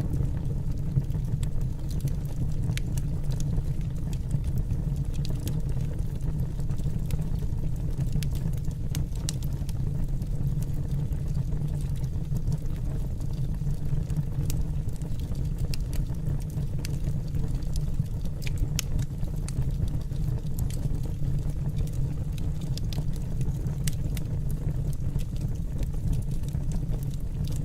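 Wood fire burning in a fireplace: a steady low roar with scattered sharp crackles and pops.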